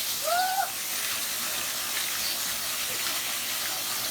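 Steady hiss of rushing water from a waterfall, with a short shout from a voice about a quarter second in.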